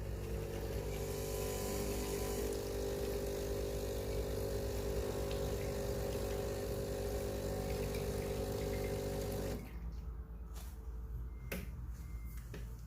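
Breville Barista Pro espresso machine flushing its group head: the vibratory pump hums steadily with water hissing through, then cuts off suddenly about three quarters of the way in. A few short knocks follow near the end.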